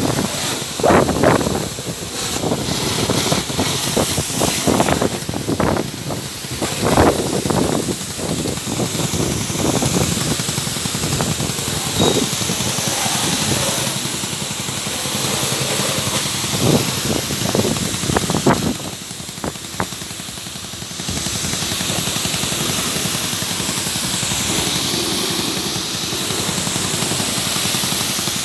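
Motorbike engine running, its throttle blipped repeatedly in short rising revs, under a steady hiss of water being sprayed over it. It keeps running without stalling: a water-spray test after repairing its misfiring in the wet.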